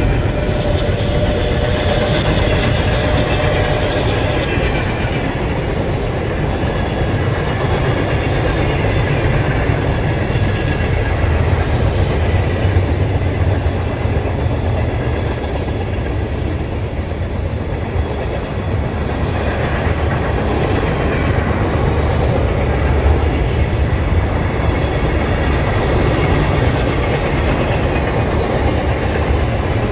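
Freight train cars, covered hoppers and then tank cars, rolling past close by: a steady rumble with wheels clacking over the rails.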